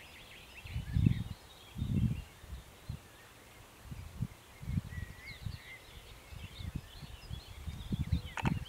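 Small birds chirping and calling faintly, mixed with irregular low rumbles, the strongest about one and two seconds in, and a few sharp clicks near the end.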